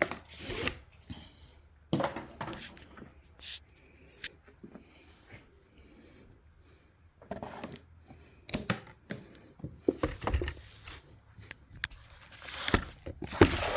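Intermittent handling noises from unpacking boxed batteries: packaging rustling, with short clicks and knocks coming in scattered bursts and quiet gaps between them.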